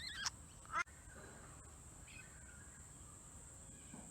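Pet budgerigar chirping: a short wavering warble at the start and a quick upward chirp just under a second in, then faint soft chatter.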